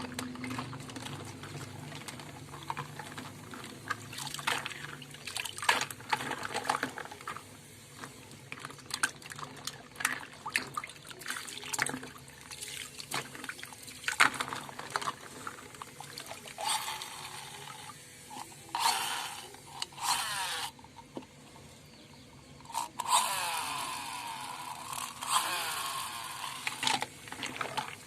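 Flowing water running and splashing over toy cars, with frequent clicks and knocks as the toys are handled. There are louder spells of gushing water in the second half.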